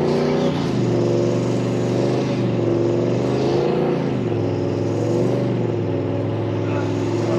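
Four-wheel drive's engine revving under load, its pitch rising and falling several times, as the bogged vehicle tries to drive out on recovery tracks.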